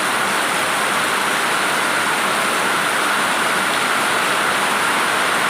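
Heavy rain pouring down in a rainstorm, a steady, unbroken hiss.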